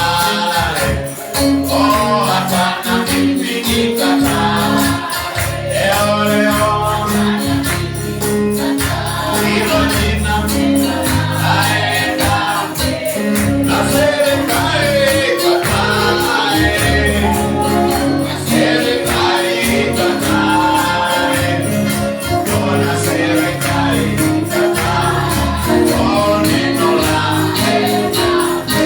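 Live gospel praise music: a worship team singing over a band, with a steady fast beat from tambourine and percussion.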